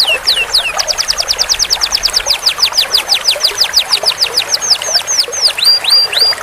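Canary singing a long roll: a fast trill of rapidly repeated downward-sweeping whistled notes, breaking into a few slower, longer downslurred notes near the end.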